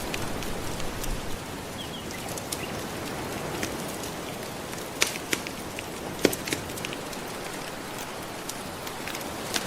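Wood fire crackling, with scattered sharp pops and snaps and a couple of louder pops midway, over a steady soft wash of gentle ocean waves.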